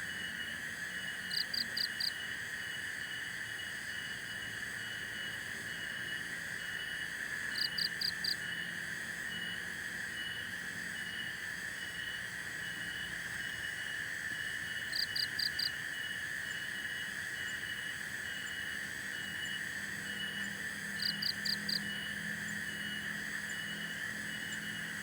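Forest ambience of an insect chorus: a steady high drone with a regular chirping over it. Every six or seven seconds there is a short call of four quick high pulses, four times in all.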